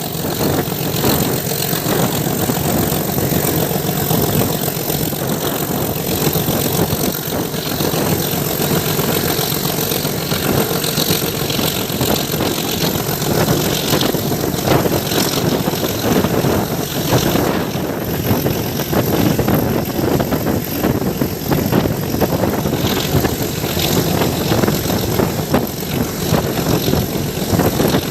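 Metre-gauge train running: a steady, loud rumble and rattle that holds without a break.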